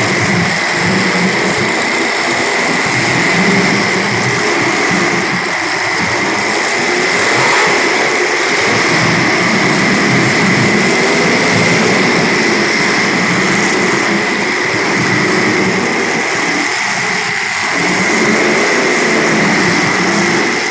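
Several small race car engines running hard during a race, a continuous loud buzz whose pitch rises and falls as the cars accelerate and lift around the track.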